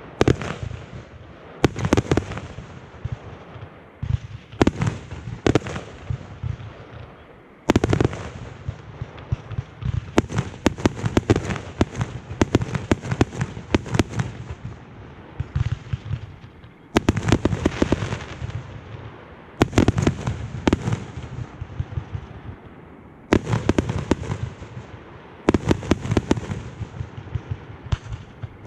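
Aerial fireworks going off: a long string of sharp bangs from bursting shells, coming in clusters of rapid-fire reports with short lulls between.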